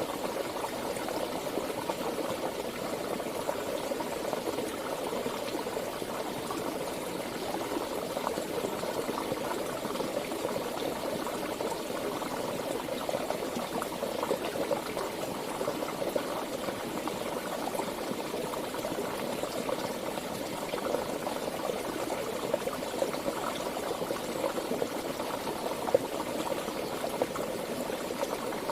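A stream of flowing water babbling steadily, with a continuous fine gurgling texture.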